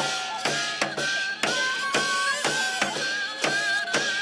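Korean shamanic ritual (gut) accompaniment music: a sustained melody instrument holding a wavering line over regular drum strokes, about two to three a second.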